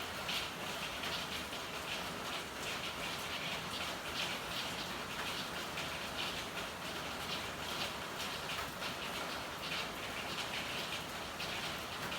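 Steady rain falling in an alley, with many small patters and drips strongest in the upper range and no letting up.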